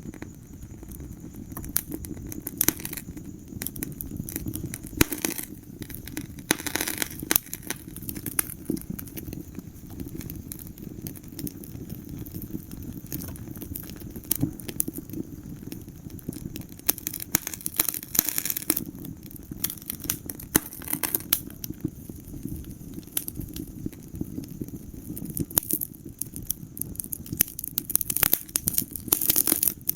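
Wood fire burning in a fireplace: a steady low rumble of the flames with irregular sharp crackles and pops of burning logs, coming in thicker clusters at times.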